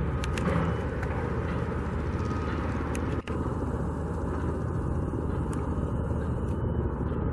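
Steady outdoor background noise with a low rumble, with a momentary dropout a little over three seconds in.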